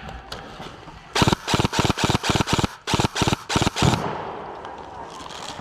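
Airsoft gun firing a rapid string of about a dozen shots, some in quick pairs, starting about a second in and stopping after about three seconds.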